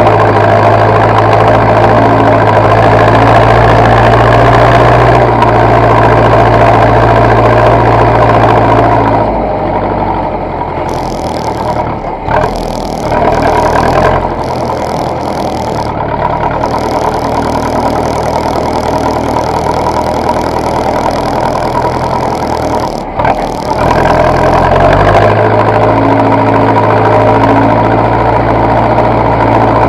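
Zetor tractor diesel engine running steadily. It turns quieter for about fifteen seconds in the middle, then comes back to full level.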